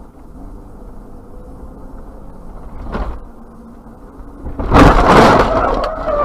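Car collision heard from inside a vehicle. Steady low road noise with a single knock about three seconds in, then a loud crash of impact shortly before the end. A steady, pitched tone follows the impact.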